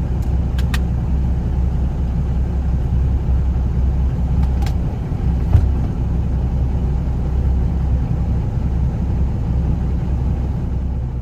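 Semi truck's diesel engine idling steadily, with a few short clicks and knocks.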